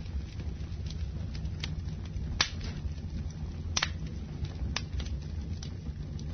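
Wood fire burning in a fireplace: a steady low rumble of flames with scattered sharp crackles and pops, two louder pops about two and a half and four seconds in.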